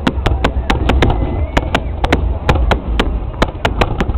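Fireworks going off in a rapid, irregular string of sharp bangs, about six a second, over a steady low rumble.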